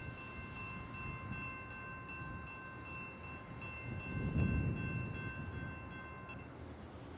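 Norfolk Southern freight train led by a GE Dash 9-40CW diesel locomotive approaching: a steady low rumble that swells about four seconds in, under a steady high-pitched tone that stops shortly before the end.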